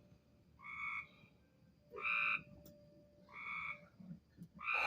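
Treefrogs calling: a repeated nasal honking call, about half a second long, given four times at an even pace of roughly one every 1.3 seconds.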